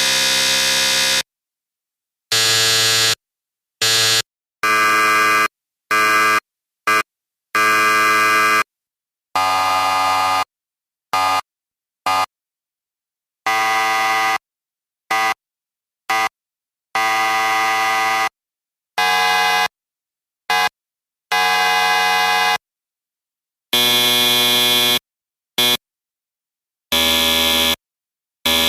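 A series of electric buzzer sounds, one after another: harsh steady buzzes of differing length and pitch, some brief blips and some held for one to two seconds, each cutting off abruptly into silence.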